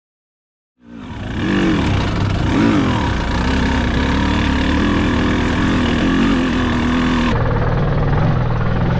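Dirt bike engine starting abruptly, revved up and down twice, then held at a steady high note. About seven seconds in it drops to a lower, steady engine note.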